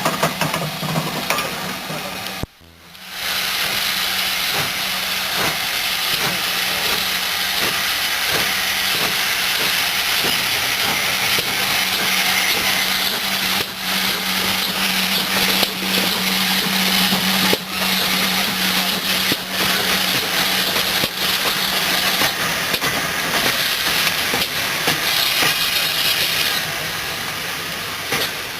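Steam locomotive venting steam: a loud, steady hiss, with a low hum under it that stops about three quarters of the way through.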